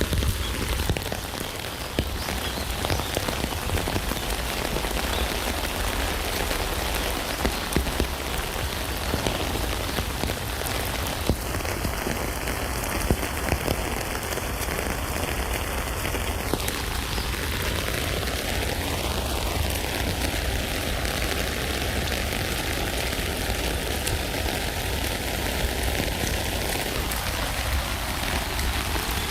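Steady rain falling on a tent, a dense even rush with occasional louder drops standing out.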